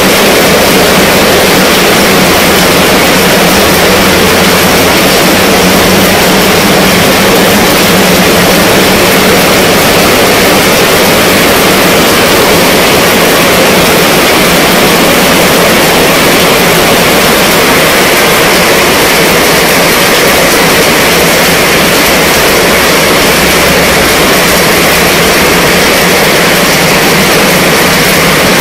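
Heavy rain falling steadily on a fabric canopy tent roof overhead, a loud, even patter with no breaks.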